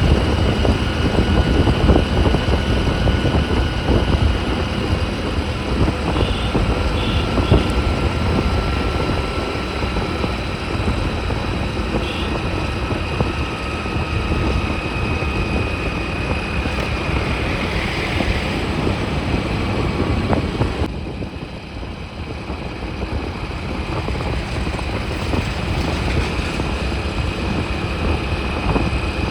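Motorbike being ridden: a steady motor drone with road and wind rumble and a faint high whine. It quietens for a few seconds about three-quarters of the way through, then picks up again.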